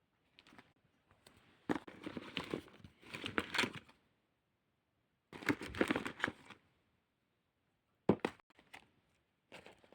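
Crinkling and crumpling noises in four separate bursts of about a second each, with silent gaps between them.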